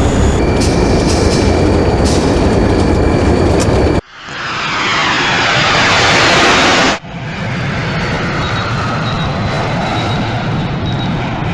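Jet airliner engine sound effects in abruptly spliced sections: a low steady rumble, then about four seconds in a brighter rising rush that cuts off suddenly some three seconds later, followed by a steadier engine sound with faint short high beeps.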